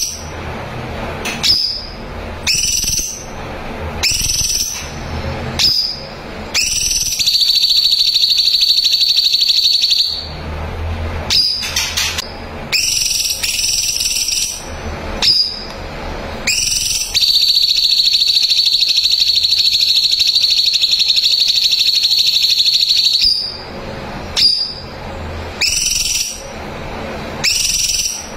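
Cucak cungkok, a bulbul, singing: short rising whistled notes repeated about every second and a half, broken twice by long, rapid high trills, the first about three seconds long and the second about six.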